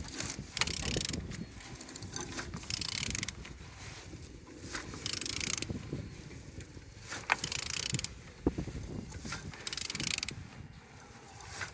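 AWT engine being turned over by hand, its pulleys and belt drive turning in repeated strokes about every two to three seconds, with mechanical clicks between the strokes.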